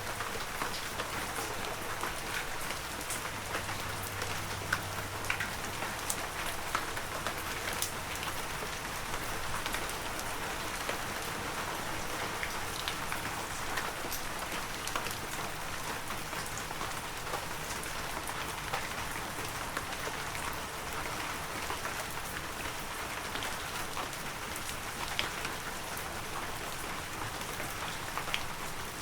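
Heavy rain falling steadily, with sharp ticks of individual drops scattered all through it.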